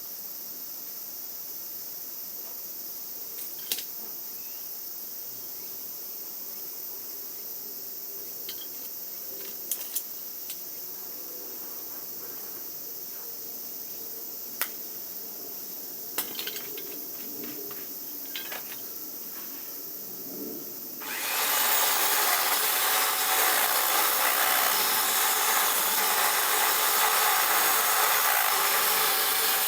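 A steady high chirring of insects with a few light clicks of hand tools. About two-thirds of the way through, a power tool starts abruptly and runs loud and steady.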